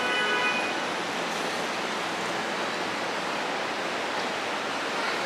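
Steady rushing noise of a train at a station platform, opening with a brief high squeal of several pitches lasting under a second.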